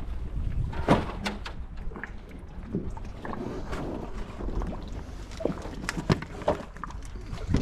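Scattered knocks and clunks of people shifting about in a kayak, over wind buffeting the microphone.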